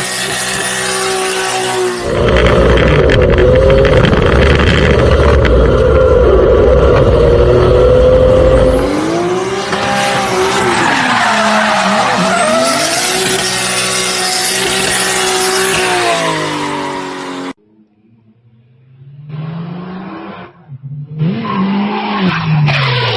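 Drift cars sliding: engines revving hard with rising and falling revs over tyre squeal and skidding, in several clips cut together. About three quarters of the way through the sound drops away, then comes back as short bursts of revving.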